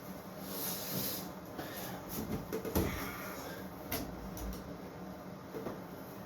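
Workshop handling noises: a short rustle, then several light knocks and clicks as wooden pieces are moved and set in place.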